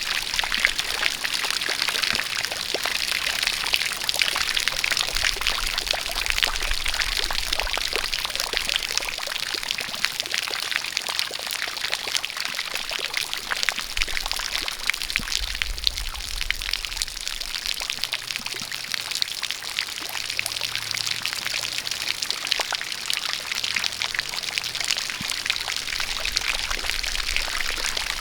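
A jet of water pouring and splashing steadily, mixed with falling rain, full of fine drip and splash ticks.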